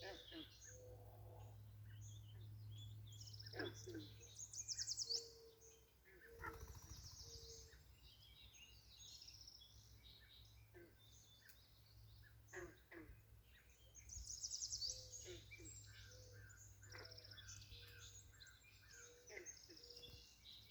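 Faint birdsong in a swampy roadside: several birds chirping, with a quick high trill about four seconds in and another around fifteen seconds.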